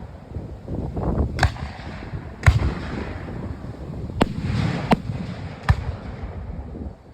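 Fireworks shells bursting, five sharp bangs at uneven intervals over a continuous low rumble.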